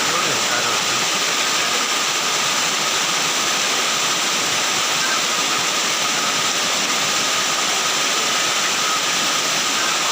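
Floodwater rushing in a steady, loud roar of noise, with a faint steady high tone running through it.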